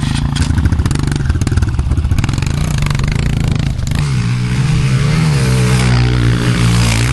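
Honda CRF125 pit bike's small single-cylinder four-stroke engine being ridden hard, rough and pulsing at first, then revving with its pitch rising and falling from about four seconds in.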